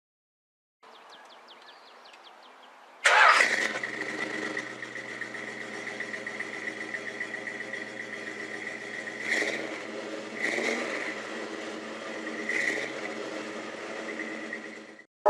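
A car engine cranking and starting with a sudden catch about three seconds in, then running steadily with three short throttle blips. It stops suddenly near the end.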